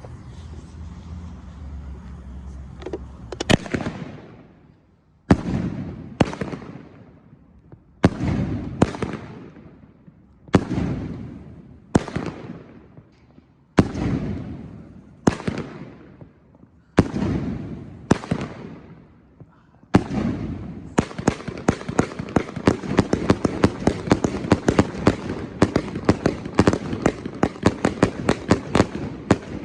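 IYKYK firework cake firing: the first shot comes about three and a half seconds in, then single loud shots follow, each with a crackling tail. About twenty seconds in it breaks into a rapid barrage of many shots.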